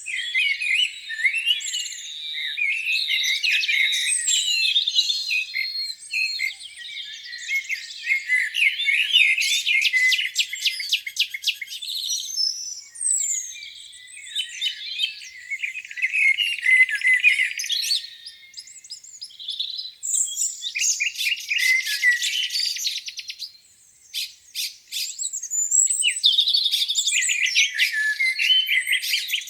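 Several songbirds singing at once in a spring morning chorus: overlapping chirps, warbles and rapid trills, with a brief lull about three quarters of the way through.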